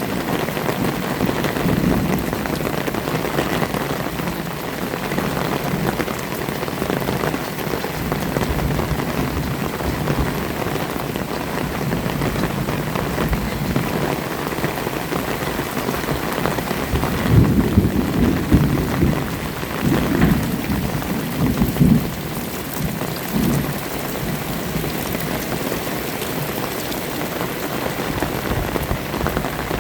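Heavy rain falling steadily on surfaces, with a low rumble of thunder rising and falling about two-thirds of the way through.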